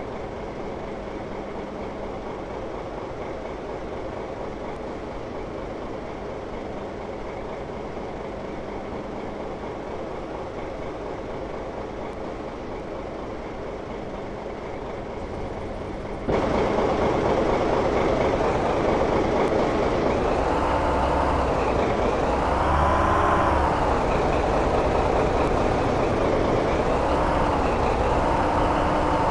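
Locomotive engine running steadily. About sixteen seconds in it suddenly becomes louder, and its pitch then rises and falls several times as it revs up and down.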